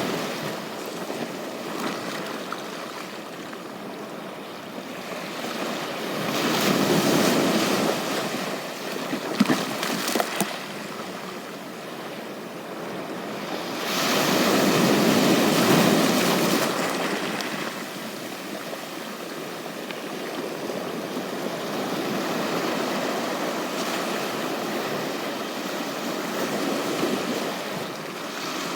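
Ocean waves breaking and washing up on a beach: a steady hiss of surf with two louder surges, about six and fifteen seconds in.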